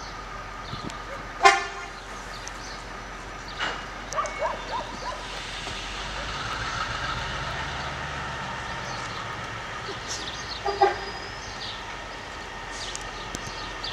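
Two short train horn toots, one about a second and a half in and one near the end, over a steady low rumble that swells in the middle.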